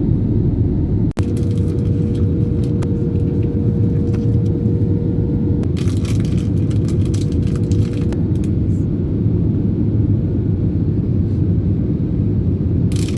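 A loud, steady low rumble that cuts out for an instant about a second in, with a faint steady hum for several seconds and some brief hissy bursts partway through.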